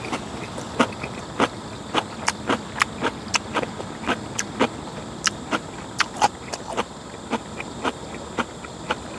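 Close-up wet chewing and lip-smacking of a mouthful of goat stew, picked up by a clip-on chest microphone: a run of sharp, irregular smacks about three a second.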